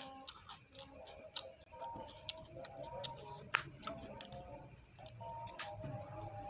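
Close-up chewing of raw mustard greens: irregular crisp crunching clicks, over soft background music.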